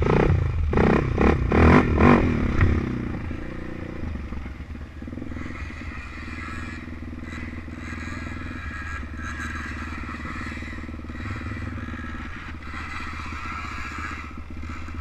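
Off-road motorbike or quad engines running, loud and pulsing for the first few seconds, then settling to a steadier, quieter running sound.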